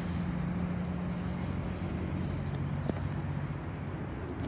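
Amtrak Cascades Talgo passenger train running away down the track: a steady low rumble and hum whose droning tone drops in pitch about halfway through. A single sharp click comes about three seconds in.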